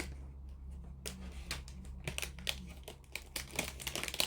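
Light crinkling and a run of small clicks as materials are handled at a workbench, over a steady low hum.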